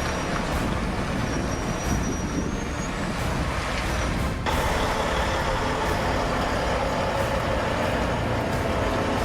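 Heavy-haulage truck engine running under load with road noise. About four and a half seconds in, the sound changes abruptly to a similar but brighter engine drone.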